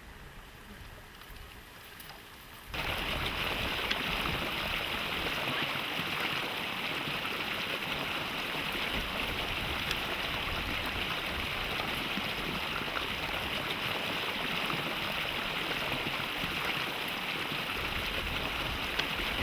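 A fast mountain stream rushing, loud and steady. About three seconds in it cuts in abruptly over a much quieter, softer stretch.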